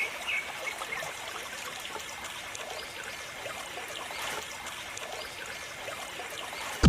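Water trickling and splashing, with a steady patter of small splashes: the jet from a small DIY water pump running. Loud electronic music cuts in at the very end.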